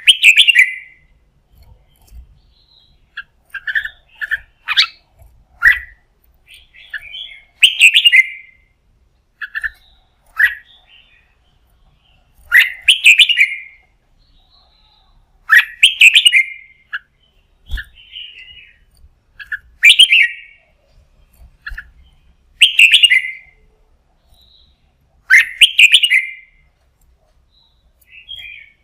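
Red-whiskered bulbul singing: short, loud, bubbly phrases repeated every two to three seconds, with softer single notes in between.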